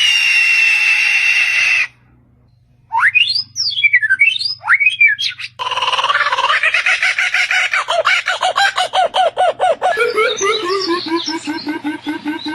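A series of bird calls in separate clips. First a held, high screech for about two seconds. After a short pause come whistles that swoop up and down. Then a long run of rapid chattering notes at about five a second, and near the end a string of notes stepping down in pitch.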